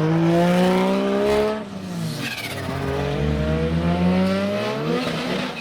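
Car engine revving hard under acceleration, its pitch climbing steadily. About a second and a half in it drops away, then climbs again before falling off near the end.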